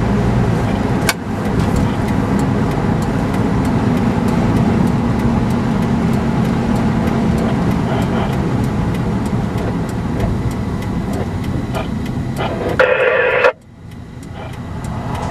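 Car engine and road noise heard from inside the cabin while driving, with a turn signal ticking steadily. Near the end comes a short loud buzzing burst, and then the sound drops away suddenly.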